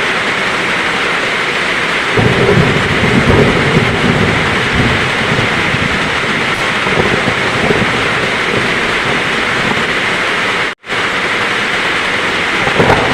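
Heavy rain falling steadily, with a low roll of thunder swelling about two seconds in and fading over a few seconds. The sound cuts out for an instant near the end.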